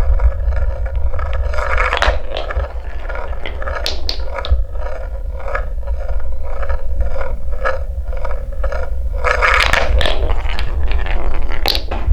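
Wooden balls rolling and clattering down a wooden marble-run track, with a low rumble throughout. Through the middle the balls knock in a steady run of about three clacks a second, with busier bursts of clatter early on, near the end and just before it stops.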